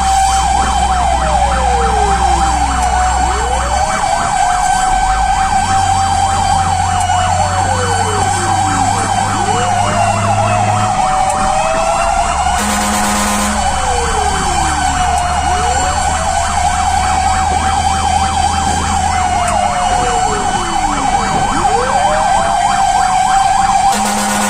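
Fire truck siren sounding continuously while the truck responds to a fire alarm: a steady high wail with a rapid warble, overlaid by repeated falling wails. A truck engine rumbles underneath, and two short horn blasts cut in, one about halfway through and one at the end.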